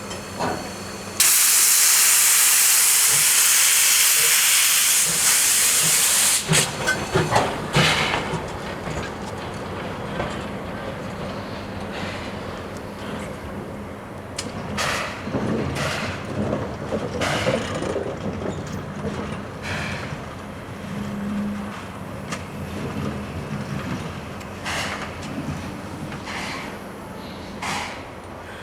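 JNR Class C12 steam locomotive letting off a loud blast of steam hiss about a second in, which stops abruptly after about five seconds. Scattered clanks and short hisses follow.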